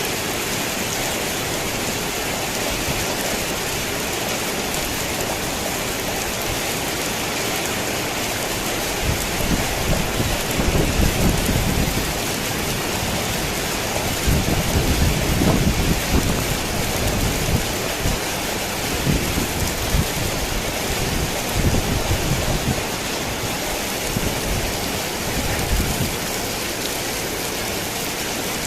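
Steady rain falling on a tin roof, with thunder rumbling in uneven swells from about a third of the way in until near the end, loudest around the middle.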